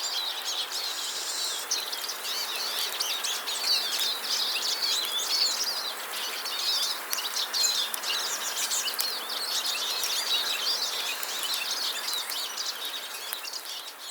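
Many small birds chirping and twittering together in a dense, overlapping chorus of short high calls.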